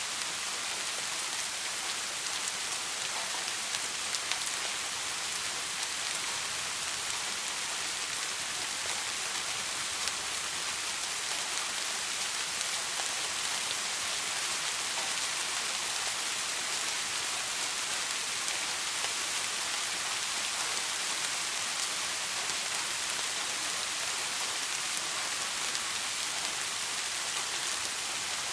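Soft, steady rain: an even, bright hiss of countless drops, unchanging throughout, with no thunder.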